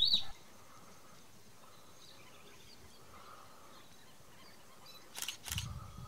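Faint bird calls over quiet dry-scrub ambience, with two sharp clicks about five seconds in.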